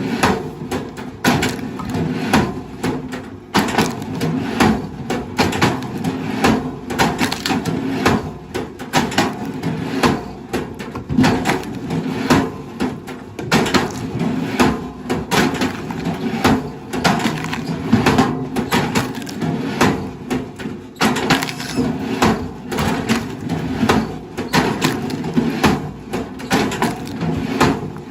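Wood cracking and splintering in rapid, irregular sharp snaps as heavy machinery breaks up timber, over the steady drone of the machine's engine.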